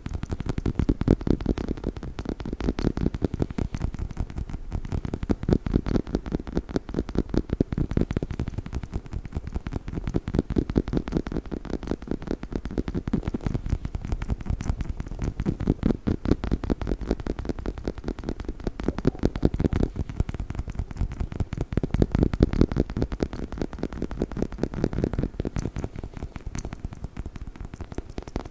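Fast, continuous tapping on a dog's chicken toy, dull and low in pitch, swelling and easing every few seconds.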